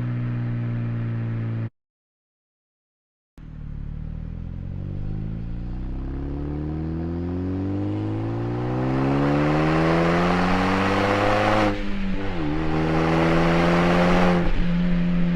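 Hyundai Genesis Coupe's turbocharged four-cylinder engine with an aftermarket cat-back exhaust. It runs at a steady note and is briefly cut off about two seconds in. Then it picks up under throttle, climbing in pitch for several seconds with a growing turbo and exhaust rush, dips sharply about twelve seconds in, and holds a steady high note before dipping again near the end.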